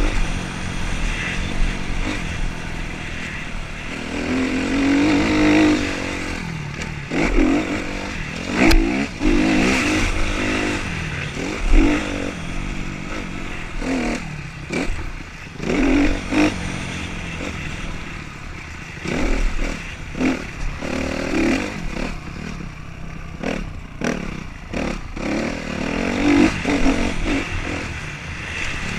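Motocross bikes racing on a dirt track, engines repeatedly revving up and easing off as they pass through the course. Low thumps of wind on the microphone come and go.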